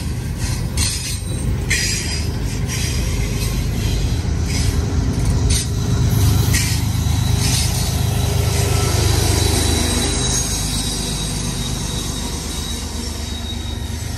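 CN intermodal freight train rolling past: a loud steady low rumble of the cars, with sharp clicks over the rail in the first half and a thin high wheel squeal through the middle.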